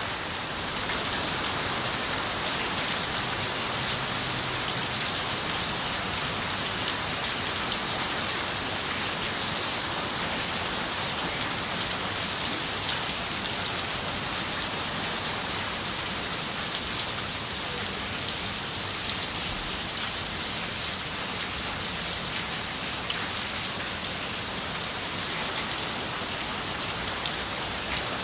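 Steady rain falling on a window, an even hiss with scattered sharper drop taps.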